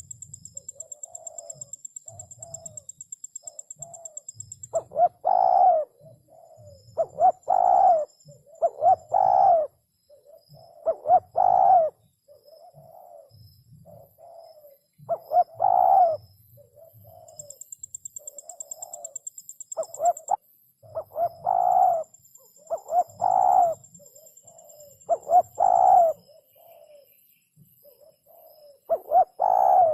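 Spotted dove cooing: repeated phrases of low, soft coos, each group a second or two long and a few seconds apart. A thin, high pulsing trill sounds faintly behind it for a few seconds at the start and again in the middle.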